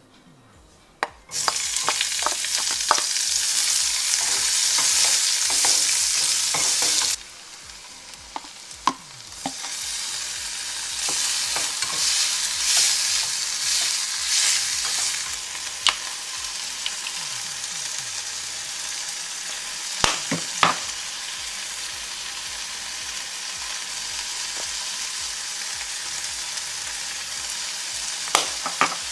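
Onion, garlic, tomato and shrimp sizzling in hot olive oil in a granite-coated nonstick frying pan, stirred with a nylon slotted spatula. The sizzle starts suddenly about a second in and stays loud for about six seconds, drops sharply, swells again for a few seconds, then settles to a steady frying hiss. A few sharp taps of the spatula on the pan come in the second half.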